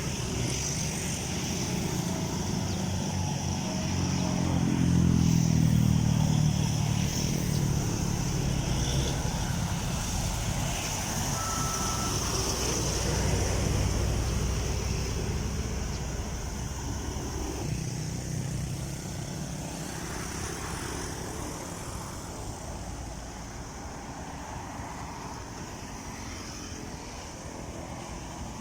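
Heavy trucks' diesel engines going by on the road, loudest about five seconds in and again around fourteen seconds, then the traffic fades away.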